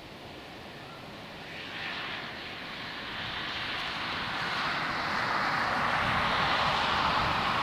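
Jet airliner's engines approaching to land, a rushing roar growing steadily louder across the whole stretch.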